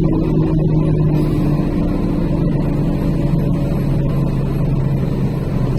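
Truck's diesel engine running steadily in a low drone, heard from inside the cab as it descends a mountain grade; its pitch drops slightly about a second and a half in.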